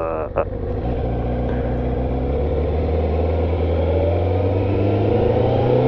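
Kawasaki motorcycle engine running under way at a steady note, its pitch climbing gradually toward the end as the bike accelerates, with wind rush over the helmet microphone.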